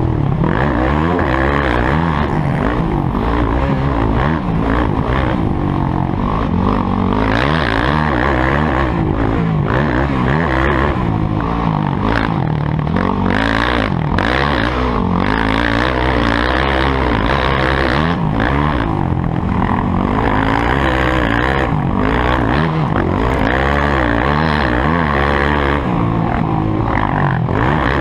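Motocross motorcycle engines revving up and down, several at once, their pitches rising and falling as the riders work the throttle and shift.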